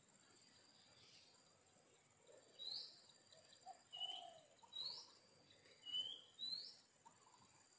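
A bird calling with five short, high, rising chirps, beginning about a third of the way in, over a faint steady high tone.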